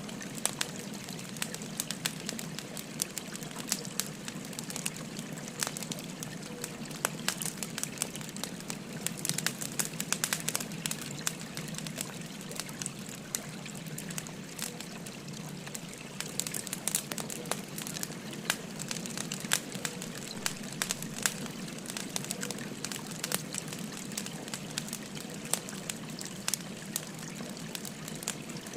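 Burning firewood crackling, with frequent sharp pops and snaps scattered throughout, over the steady babble of a flowing river.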